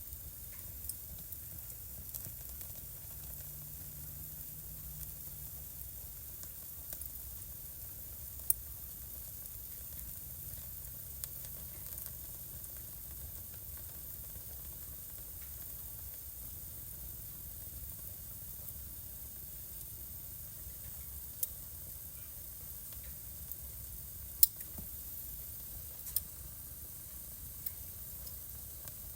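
Wood fire burning in a home fireplace: a steady soft hiss with irregular sharp crackles and pops, a few of them loud.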